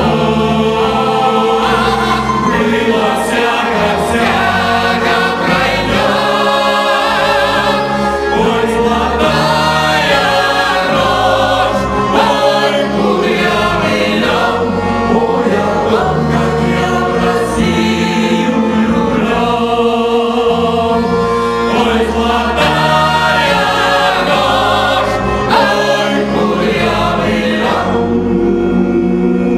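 Cossack folk ensemble singing a song in several voices over a steady instrumental accompaniment with a walking bass line. Near the end the voices drop away and the accompaniment carries on.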